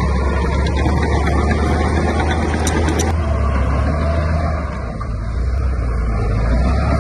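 Heavy diesel engine of earthmoving equipment running steadily with a deep low drone. It eases off briefly about two-thirds of the way through, then comes back up, with a few short metallic clicks near the middle.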